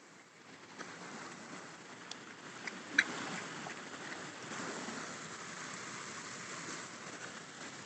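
Shallow river water flowing over lava rocks, a steady rushing that builds up in the first second. A few sharp clicks sound over it, the loudest about three seconds in.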